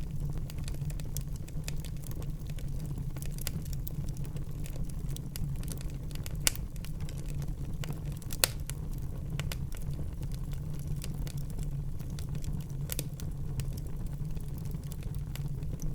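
Wood fire burning in a fireplace: a steady low rumble of flames with scattered crackles, and a few louder pops about six and a half, eight and a half and thirteen seconds in.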